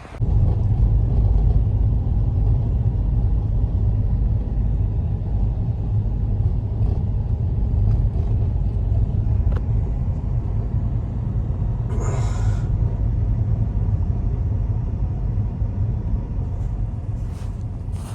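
Steady low rumble that starts suddenly and holds, with a brief hiss about twelve seconds in.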